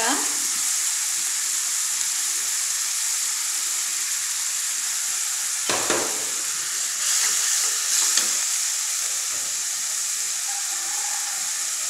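Fried onions in oil and water sizzling and bubbling steadily in a kadai as spice pastes go in for a bhuna masala. A metal spatula scrapes and taps the pan twice, about six and eight seconds in.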